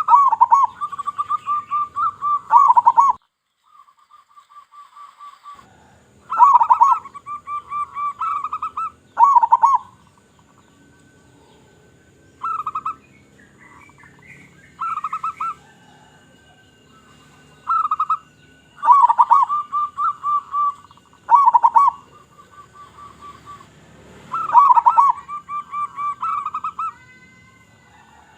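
Local zebra dove (perkutut) cooing in repeated phrases every few seconds. Each phrase is a string of rapid purring pulses with louder notes at the start and end. Quieter coos and a few higher chirps come in the gaps.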